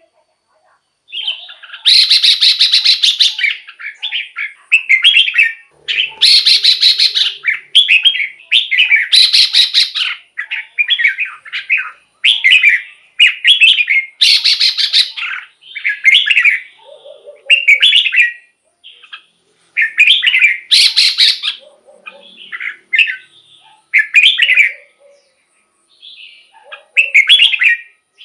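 Red-whiskered bulbul singing loud, short warbled phrases of whistled notes, one every second or two with brief pauses between them.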